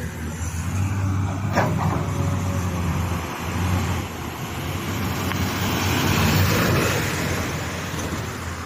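Heavy fuel tanker truck going by: a steady diesel engine hum with tyre and road noise that swells to a peak about six and a half seconds in, then eases off. A short sharp click comes about a second and a half in.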